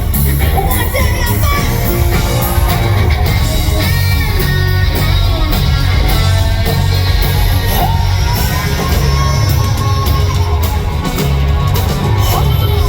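Live band playing loudly, with electric guitar, drums and singing.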